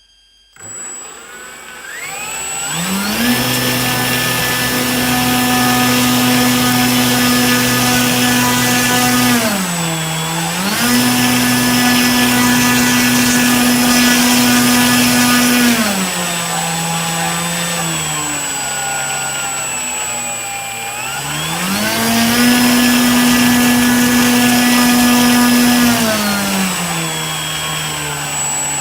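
Brushless motor run from a 25C battery, whining loudly at a pitch that follows the throttle: it spins up over the first few seconds, holds steady, dips briefly about ten seconds in, holds again, then drops lower, spins back up about twenty-two seconds in and drops again near the end. A steady high-pitched tone sits over it throughout; the owner hears the whole as a strange noise.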